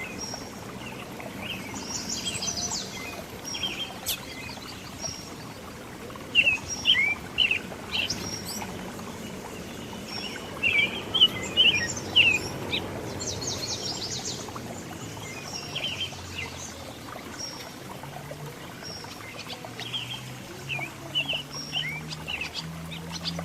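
Several small birds chirping and calling, with many short, sharp notes and quick downward-sweeping chirps, some in loud clusters. A faint low hum runs underneath, rising slightly in pitch near the end.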